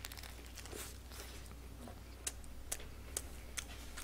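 Faint chewing of a burger, with soft mouth clicks several times in the second half about half a second apart, over a steady low hum.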